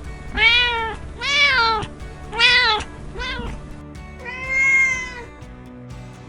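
A cat meowing five times in quick succession, each meow rising then falling in pitch, the last one longer and drawn out, over background music.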